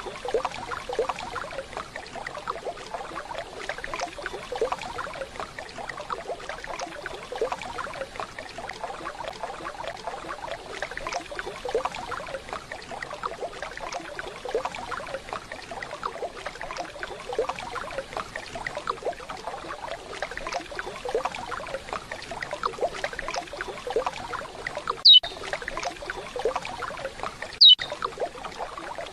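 Waterfall running steadily. Near the end, two short, loud, high whistled call notes (pialadas) of a curió (lesser seed-finch) sound about two and a half seconds apart, each dropping slightly in pitch.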